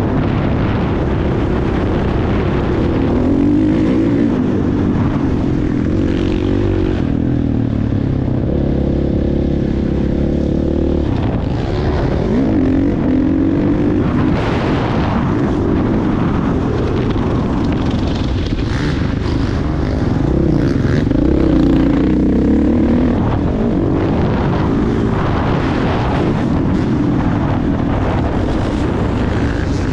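Motocross motorcycle engine running continuously, its pitch rising and falling over and over as it revs up and backs off.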